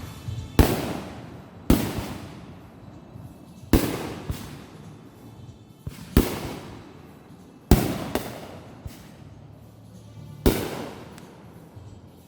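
Fireworks going off in a backyard show: about six loud, sharp bangs one to two and a half seconds apart, each trailing off over a second or two, with a few smaller pops in between.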